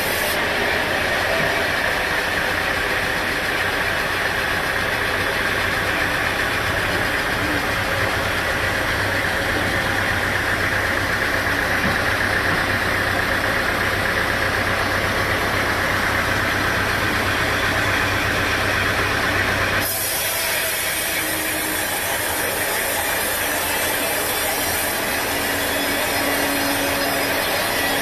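Sawmill machinery running steadily: an engine hum under a continuous cutting noise. About two-thirds of the way through the sound changes abruptly to a different steady machine noise with a faint tone.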